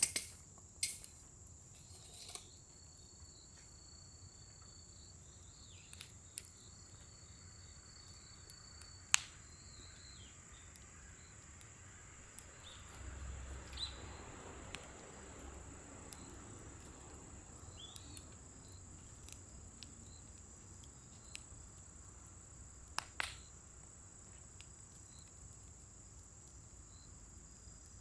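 Scrap-wood fire in a fire pit crackling quietly, with scattered sharp pops: a few near the start, one about a third of the way through and a quick pair near the end. A soft low rush swells and fades around the middle, over a steady thin high-pitched hum.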